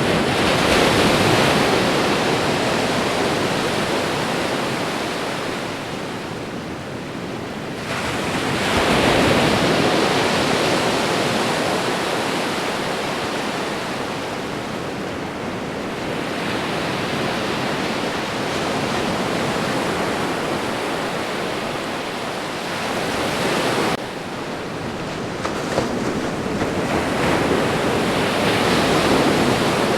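Ocean surf: a continuous wash of breaking waves that swells and ebbs, with a wave surging in roughly every eight to ten seconds.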